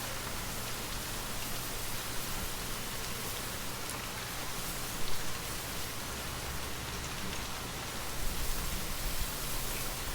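Steady gentle rain falling, an even hiss of many raindrops. A low rumble swells underneath near the end.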